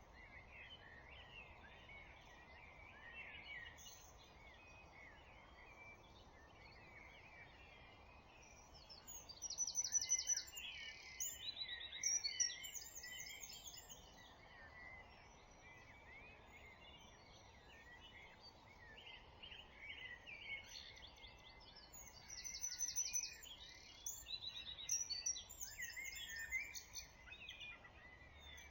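Dawn chorus of several songbirds singing over a steady background hiss, with two louder spells of fast, high trilling song, one about ten seconds in and another after twenty seconds.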